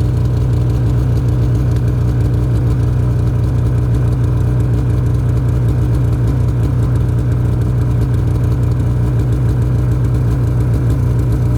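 Snowmobile engine running at a steady speed, a loud even drone that holds the same pitch throughout.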